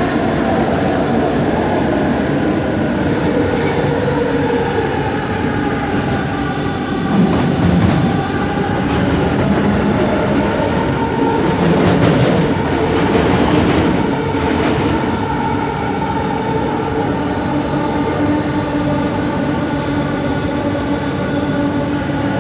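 Bombardier Innovia ART 200 metro train running, heard from inside the car: several steady whining tones from its linear induction motors over a continuous rumble of wheels on track, with louder rattling stretches around 8 and 12 seconds in.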